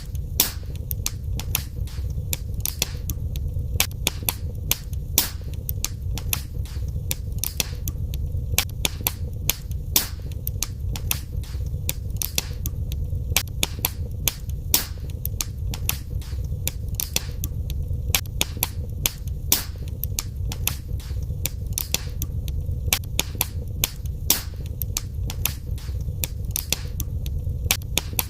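Wood fire crackling in a fireplace: a steady low rumble of burning with frequent sharp pops and snaps, several a second.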